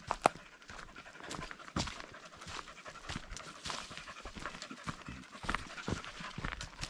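A dog panting, with footsteps and small snaps and crackles underfoot on the trail.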